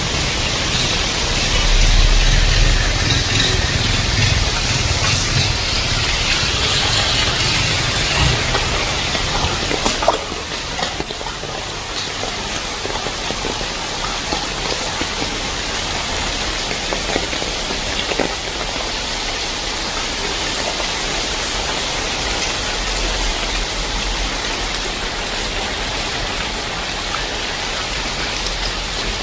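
Heavy rain pouring steadily, a dense even hiss. A low rumble underneath drops away about ten seconds in.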